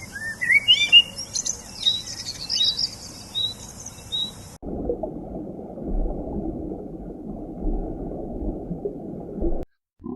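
Birds chirping: many quick rising chirps that stop suddenly about halfway through. A muffled low noise follows, ending shortly before the end.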